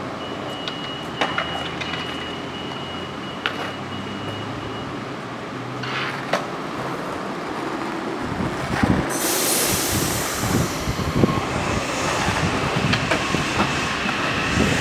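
Metro-North electric commuter train pulling into the station: at first a faint steady tone and a few scattered clicks, then from about halfway the rumble of wheels on rail with a hiss, growing louder as the train comes alongside.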